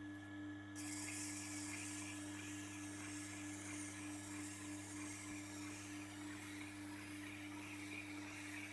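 Electric knife-sharpening machine's motor humming steadily. About a second in, a hiss sets in, typical of a steel blade being passed along the turning wheel.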